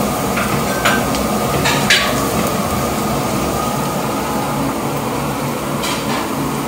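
Sliced onions, green chillies and curry leaves frying in coconut oil in a wide aluminium uruli, a steady sizzle, with a metal spatula scraping and clinking against the pan a few times, mostly in the first two seconds and once near the end.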